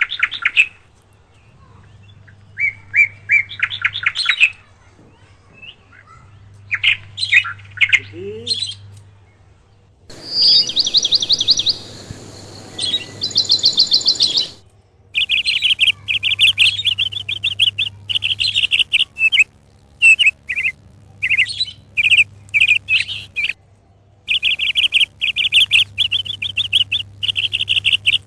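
Moustached parakeet calling in quick bursts of rapid trilled chirps, over and over, with a harsher, noisier stretch of calls in the middle.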